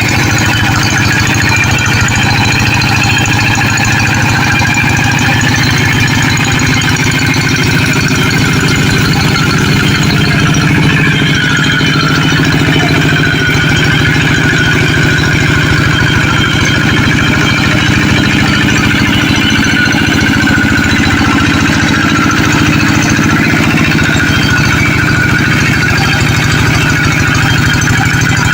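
A tractor's diesel engine running steadily, with a rapid, even chugging of firing pulses and no change in speed.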